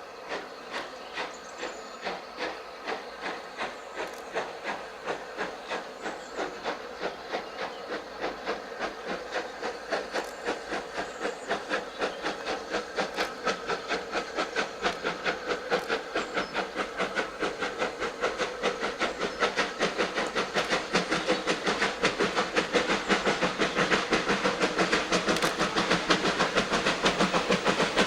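Steam locomotive working hard, its exhaust beats quickening from under two a second to about four and growing steadily louder as it draws nearer.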